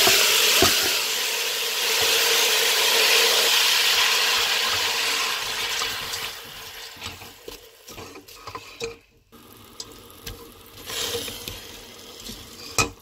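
Frozen grated carrots sizzling in hot desi ghee in a pot, a loud hiss that dies down after about six seconds. Then comes the scraping of a spatula stirring the carrots against the pot.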